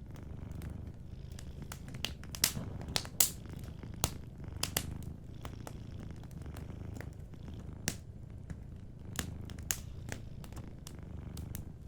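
A cat purring steadily, low and continuous, with a wood fire crackling over it in scattered sharp pops and snaps.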